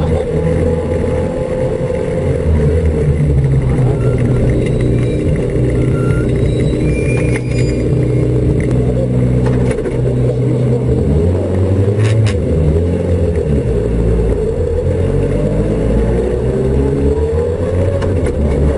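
Renault Twingo rally car's engine heard from inside the cabin, running at fairly steady revs at low speed, then revving up near the end.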